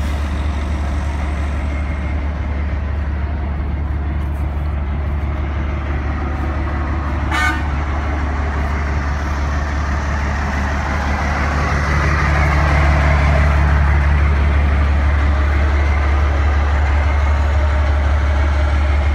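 A motor vehicle engine running with a steady low rumble that grows louder about twelve seconds in, and one short horn-like toot about seven and a half seconds in.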